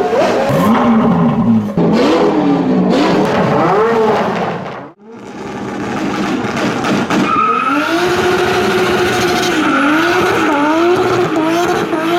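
Muscle-car V8 engine revving up and down. About five seconds in the sound cuts out briefly, then an engine is held at high revs with its pitch wavering, joined from about seven seconds in by a steady high squeal, typical of tyres spinning in a burnout.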